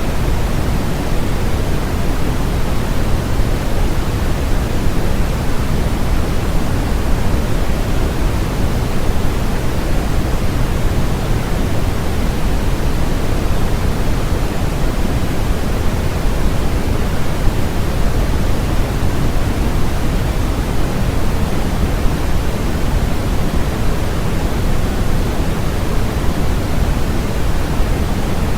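Electronically generated noise: a steady, even hiss with no changes, heavier in the bass than in the treble.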